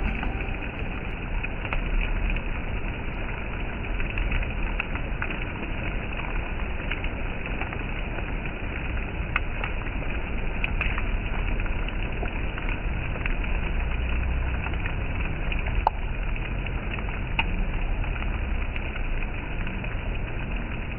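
Steady rain falling, a continuous hiss with scattered single drop ticks over a low rumble.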